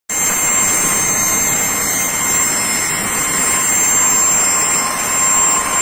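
Aircraft turbine engine running steadily, a loud rushing noise with a high-pitched whine.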